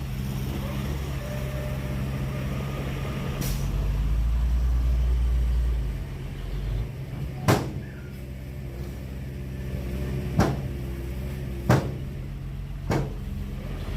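Heavy diesel engine of a construction vehicle running steadily, with a deeper rumble that swells for a couple of seconds near the middle. Four sharp knocks come in the second half, spaced one to three seconds apart.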